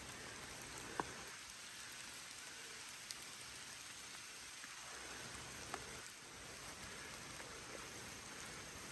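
Faint steady rain, with a few separate drops ticking now and then.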